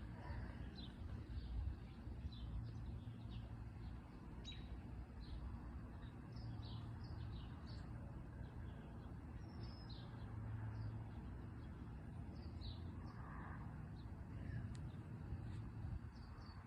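Small birds chirping, many short high chirps scattered throughout, over a steady low rumble of outdoor background noise.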